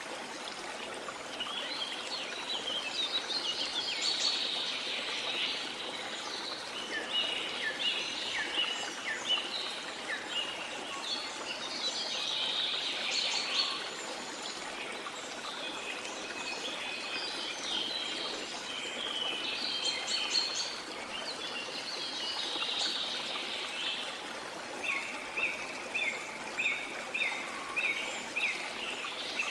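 Small songbirds chirping and singing in many short phrases over a steady wash of water. Near the end one bird repeats a single note quickly, about three times a second.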